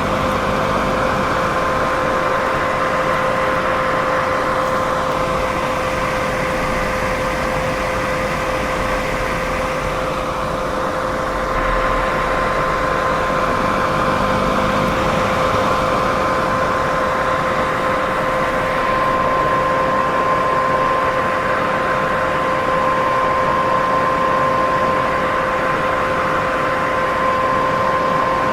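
Constant white-noise sleep sound: an even rushing hiss with a steady hum running through it, unchanging throughout.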